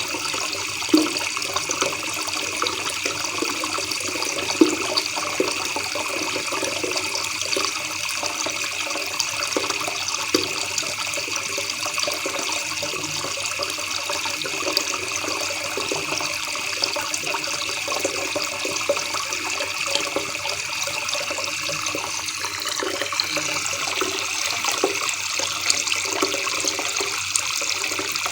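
River water babbling over rocks: a steady, continuous rush and trickle.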